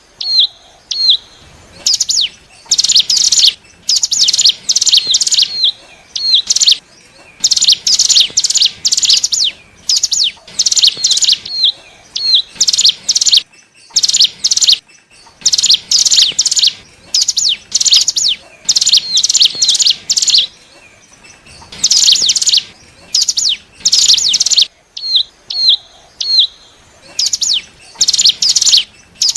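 Ciblek gunung (cigun) song: rapid runs of sharp high chirps, each run about one to two seconds long, repeated with short gaps, with a few single hooked notes between them.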